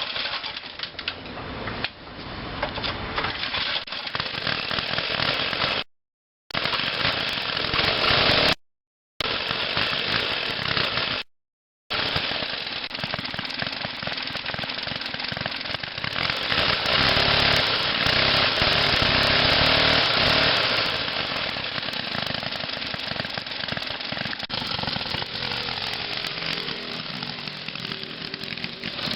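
Small engine of a mid-1970s Montgomery Ward mini bike running and being ridden, a rattly buzzing note that gets louder for a few seconds past the middle. The sound drops out completely three times, briefly.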